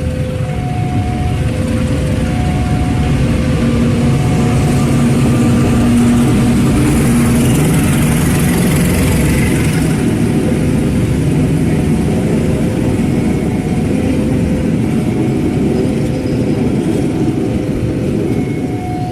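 Diesel locomotive running with a steady heavy rumble that swells near the middle, along with a hiss. A two-note electronic warning tone repeats about once a second throughout.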